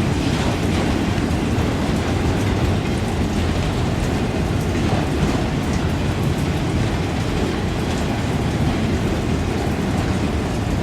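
A train rolling past: a steady rumble of wheels on rail, with faint clicks over it.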